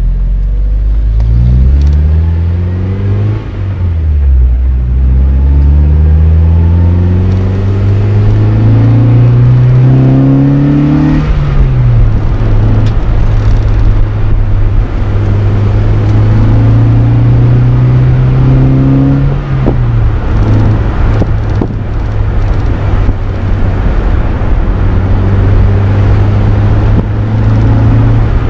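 Mazda MX-5 NB 1.8 inline-four engine through an M2 Motorsport aftermarket exhaust, pulling through the gears. The engine note climbs and drops suddenly at each gear change, about 3.5, 11.5 and 19.5 seconds in, and runs at a steady pitch between pulls.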